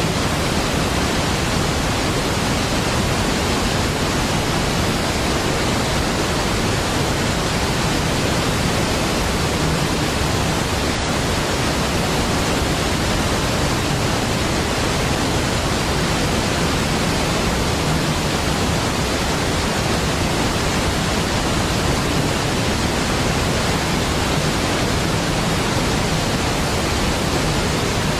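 Large waterfall, Niagara Falls, with a steady, even rush of falling water that does not change.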